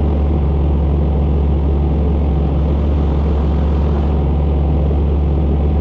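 Boat engine running steadily at a constant speed, a loud, even low drone.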